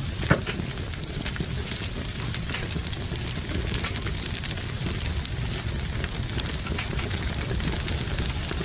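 Fireplace wood fire crackling, with scattered small snaps and one louder pop just after the start, over a steady hiss of rain.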